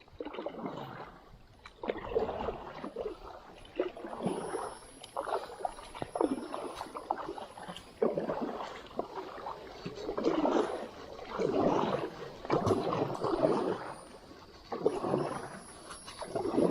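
Kayak paddle strokes in the water, a rhythmic splashing swish about every second and a half as the blades dip and pull.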